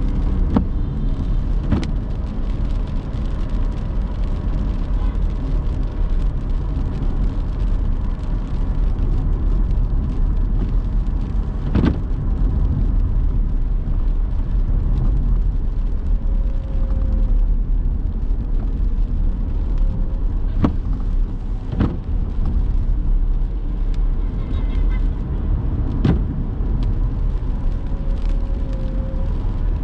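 A car driving on city roads: steady low engine and road rumble, with a handful of sharp knocks along the way.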